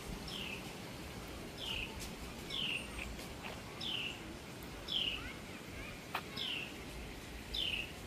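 A songbird repeating one clear, down-slurred whistled note about once a second, seven times, over a low steady background rumble.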